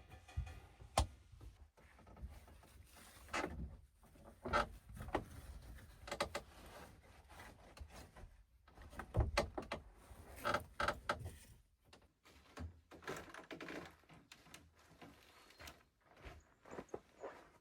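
Irregular knocks, thuds and clatter of objects being handled, with a few sharper clicks.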